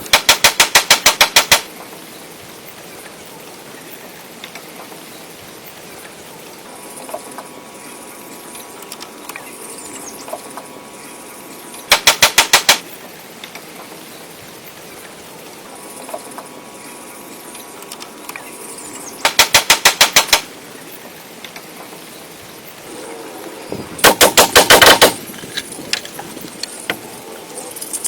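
Four bursts of rapid, loud impacts at about ten strokes a second, each lasting a second or so, with quieter background between them: one at the start, one about twelve seconds in, one near twenty seconds and one near twenty-five seconds.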